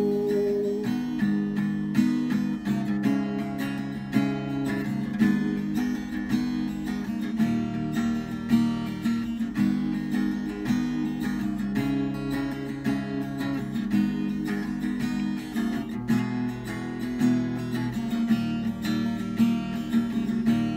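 Acoustic guitar strumming chords alone, an instrumental break between sung verses of a song.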